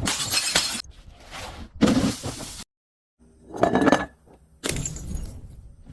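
Glass breaking and crunching in about four separate bursts, some of them cutting off abruptly.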